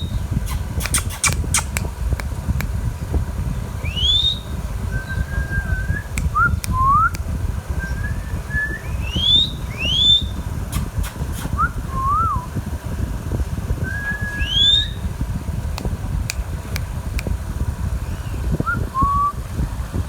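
Indian ringneck parakeet whistling: about five short, sharp whistles that sweep upward, with softer, lower whistled notes between them and a few sharp clicks near the start, over a steady low rumble.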